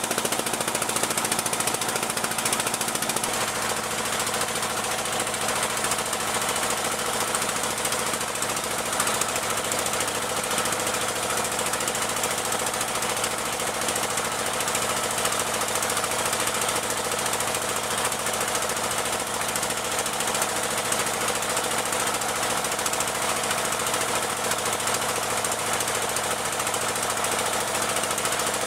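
Boat engine running steadily at an even speed, with a fast, pounding beat.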